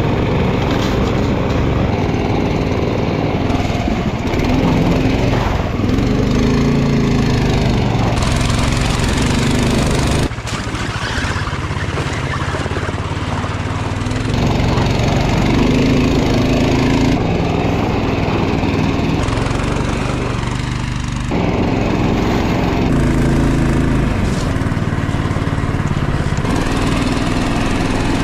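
A small engine running steadily and loudly, its pitch shifting abruptly several times.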